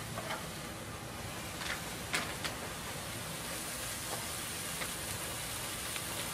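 Stir-fried vegetables sizzling in a hot wok, a steady hiss, with a few light clicks and knocks as the pan is handled.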